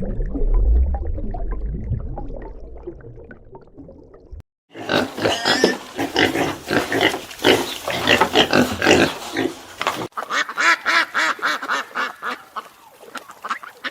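Animal calls in three cut-together parts: a low rumbling call fading out over the first four seconds, then after a sudden break a run of rapid, closely repeated calls, and after another break a further run of shorter repeated calls.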